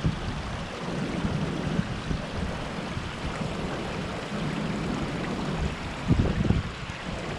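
Wind buffeting the microphone: a steady rushing with an uneven, gusting low rumble that swells about six seconds in.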